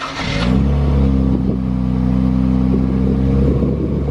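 Nissan Z's twin-turbo V6 cold-started: a short crank, then it catches within about half a second and settles into a steady idle.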